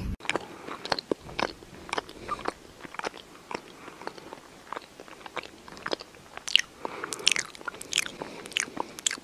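Crunchy chewing: a run of irregular crisp bites, a few each second, louder in the last few seconds.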